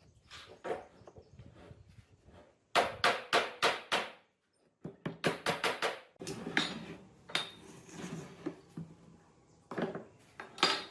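Hammer tapping in quick bursts of sharp knocks, about four or five a second, then scattered single knocks with a louder one near the end.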